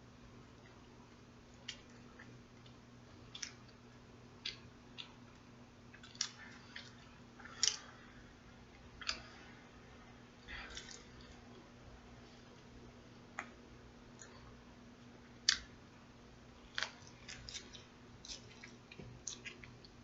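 Someone chewing a sub sandwich: irregular soft clicks and crackles of the mouth and bread, a few every second or two, over a faint steady low electrical hum.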